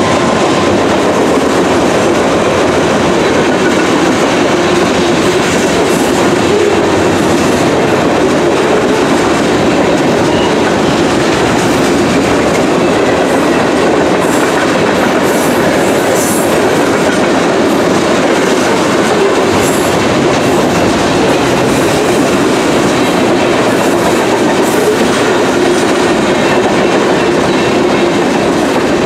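Loaded freight cars of a long freight train rolling past, a steady loud rumble of steel wheels on the rails with brief high-pitched squeaks now and then.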